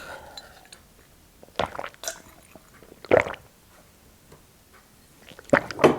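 Close-miked eating sounds: a few short, wet chewing and slurping noises with quiet gaps between them.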